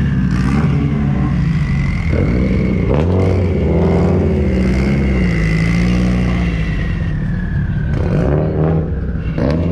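Subaru Impreza sedan driving slowly past at low revs, its engine note swelling briefly a couple of times, with a thin steady high whine over the engine sound.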